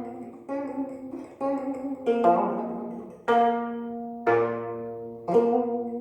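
Gayageum, the Korean plucked zither, played solo: about six firm plucked notes a second or so apart, each ringing and fading, the last left to ring out near the end.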